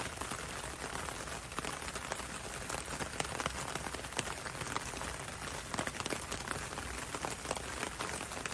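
Steady rain falling on a window and a road, a constant patter with many distinct drops ticking against the glass.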